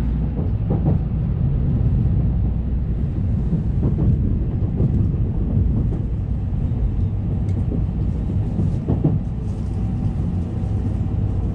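Shinkansen bullet train running on the track, heard from inside a passenger car: a steady low rumble with a few faint ticks.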